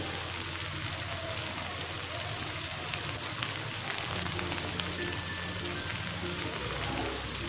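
Goat brain masala frying in oil in a non-stick pan, a steady sizzling hiss, with faint background music under it.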